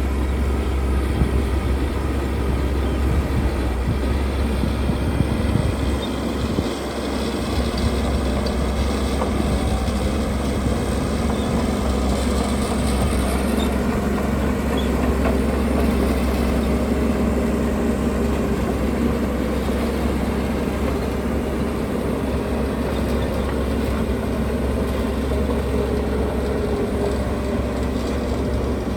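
Heavy diesel earthmoving machinery running steadily under load, a deep engine drone whose pitch drifts slightly as it works.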